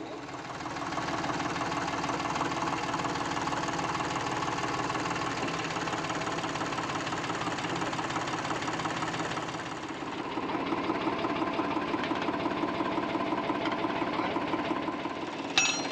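Eicher 485 diesel tractor engine running steadily under load, driving a mustard thresher, with a fast even chugging and machine rattle. The sound dips briefly about ten seconds in and comes back up, and a sharp click is heard near the end.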